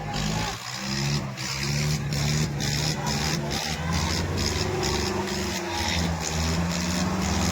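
Diesel tractor engines running hard under load in a tractor pulling contest, with a steady low engine note that shifts slightly in pitch a little after midway.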